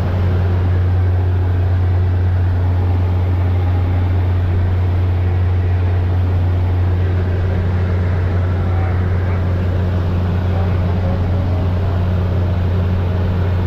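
Aircraft engine droning steadily with a low, even hum under a constant rushing noise, as heard from inside a plane climbing with skydivers.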